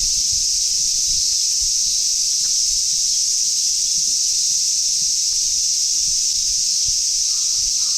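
Cicadas in chorus: a steady, high-pitched hiss-like drone that holds level throughout.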